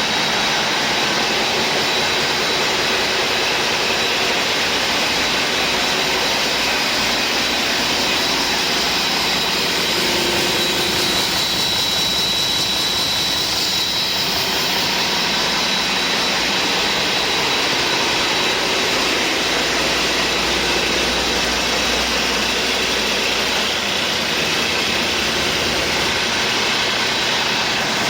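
2016 Cummins ISX15 inline-six diesel engine running steadily on a test run, a loud even drone with a thin high whine over it; the engine is described as running excellently.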